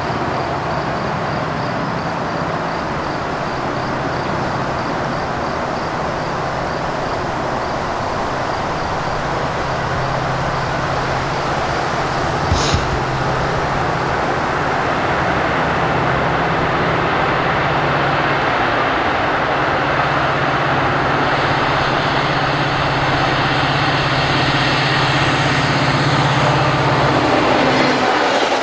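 Train running past on the mainline: a steady rush of wheels on rail with a low locomotive engine hum, gradually growing louder, and one sharp click about halfway through.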